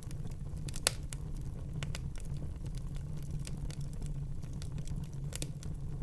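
Fire burning in a fireplace, crackling with scattered sharp pops and snaps, two louder pops about a second in and near the end, over a steady low rumble.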